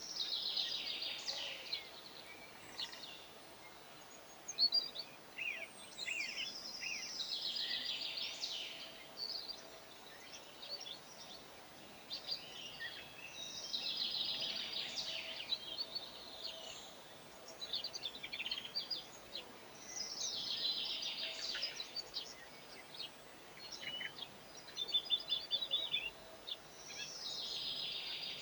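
Wild songbird singing outdoors: a short, fast, trilled phrase repeated five times about every six to seven seconds, with scattered short chirps from other birds in between.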